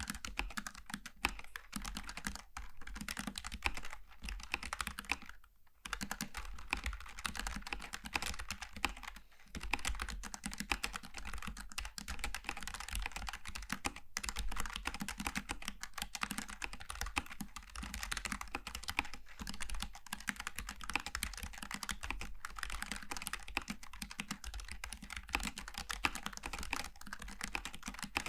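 Continuous typing on a Logitech G915 TKL low-profile mechanical keyboard with GL Tactile switches: a dense stream of key clicks, with brief pauses about five and a half and nine and a half seconds in.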